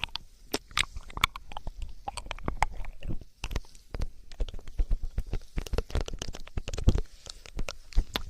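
Close-miked wet ASMR sounds: a dense, irregular run of sticky clicks and crackles right at the microphone.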